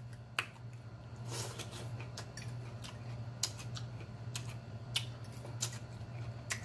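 A man chewing a forkful of raw pepper-and-onion salad, heard close up, with sharp smacks and clicks scattered through. A steady low electrical hum runs underneath.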